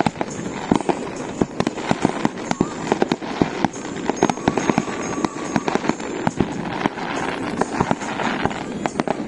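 Fireworks going off close by: a rapid string of bangs and crackling pops, several a second, over a continuous hiss and crackle.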